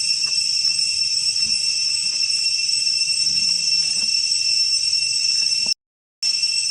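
Steady, high-pitched insect drone, with a few faint clicks underneath. The sound cuts out completely for about half a second near the end.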